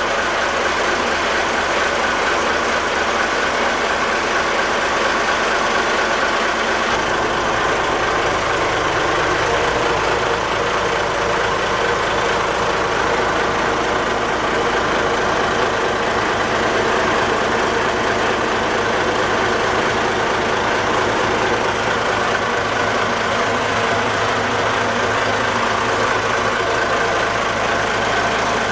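Seike Zosen 49-foot cabin boat's engine running steadily. A deeper rumble joins in about seven seconds in and holds.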